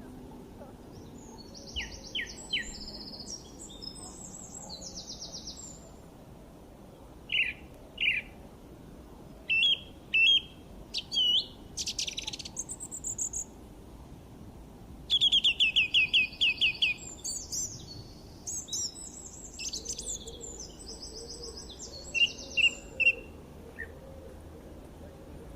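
Songbirds singing: short phrases of sharp chirps and fast trills with brief pauses between them, and a quick run of repeated notes about halfway through, over a faint steady background hiss.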